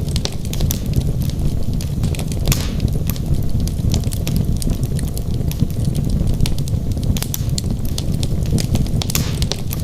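Wood fire burning in a fireplace: a steady low rumble of flames with many sharp crackles and pops from the logs, and two brief hisses, one about two and a half seconds in and one near the end.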